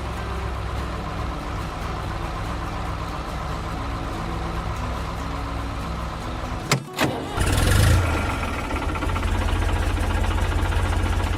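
A vehicle engine running steadily. A little under seven seconds in, two sharp clicks and a brief drop are followed by a short noisy burst as the engine starts up again, and it then settles into a steady, slightly louder run.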